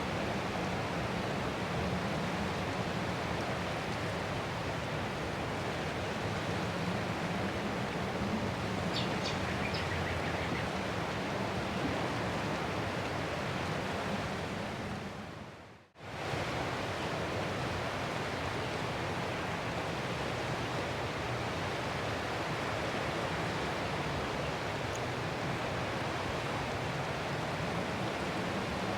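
Ocean surf as a steady, even rush of noise. About fourteen seconds in it fades away over a couple of seconds and cuts out for an instant, then quickly swells back to the same steady rush.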